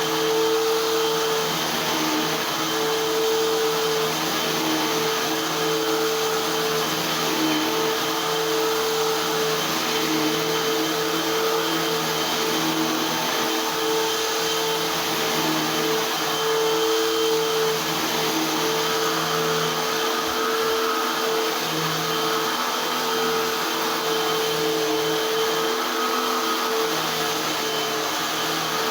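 Eureka AirSpeed Unlimited Pet vacuum cleaner running steadily, its motor keeping a constant whine under a rush of air.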